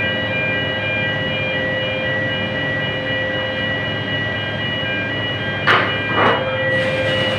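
Steady mechanical hum with several steady whining tones, broken by two short hissing bursts near the end.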